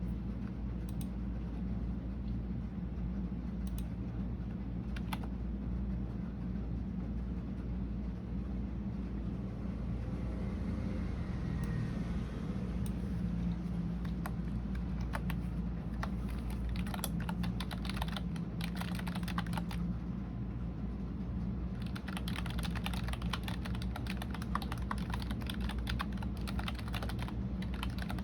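Typing on a computer keyboard: a few scattered keystrokes at first, then fast, continuous typing from about halfway through, over a steady low hum.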